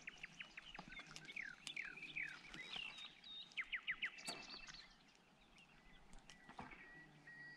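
Faint chirping of small songbirds: many short, quick notes dropping in pitch, thick at first and thinning out about halfway through.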